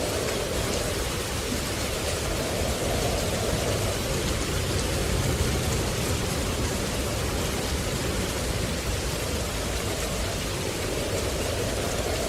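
Steady rushing noise of falling water, with a lower band that swells around the start, fades, and swells again near the end.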